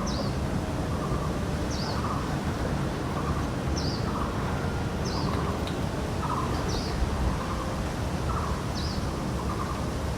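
Birds calling outdoors: a short, high, falling chirp repeated about every second and a half, with a lower repeated call underneath, over steady outdoor background noise.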